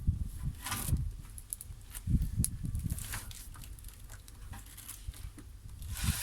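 Small wood fire crackling in a camp wood stove: scattered sharp snaps and brief hissy flares, over soft low thumps and rustling.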